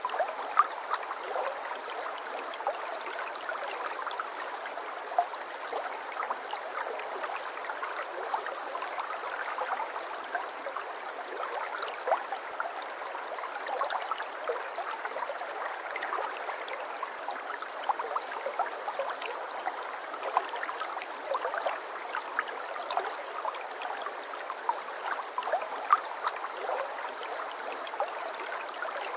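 Shallow babbling brook: water trickling and gurgling over stones, a steady wash with many small splashes and droplets throughout.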